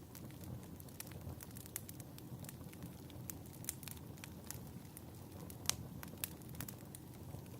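Wood fire crackling: irregular sharp pops and snaps over a low steady rumble, with one louder pop about three quarters of the way through.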